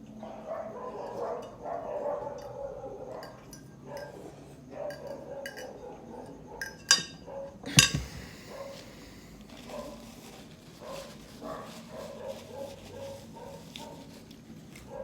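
Close-miked eating of instant noodles and ribs, with two sharp clinks of cutlery against the dish about seven and eight seconds in.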